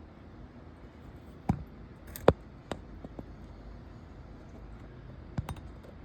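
A few short, sharp clicks and knocks, the loudest about two seconds in and a pair near the end, over a low steady background hum.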